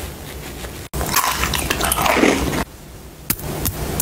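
Close-up mouth sounds of a person biting and chewing a soft fruit jelly, wet and dense, stopping abruptly at about two and a half seconds in. A few sharp clicks follow near the end.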